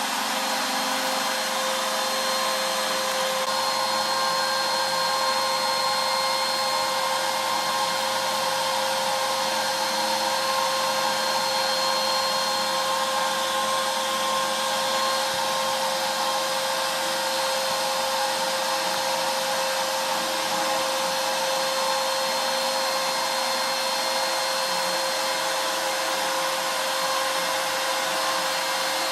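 CNC router spindle running steadily with a constant whine over a broad hiss, carving walnut with an ultra-fine 1/16-inch ball-nose bit on a slow finishing pass.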